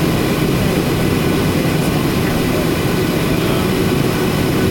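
Steady aircraft noise heard inside a Boeing 737-800: an even rushing hiss with a steady low hum and a few held tones, and no change in level.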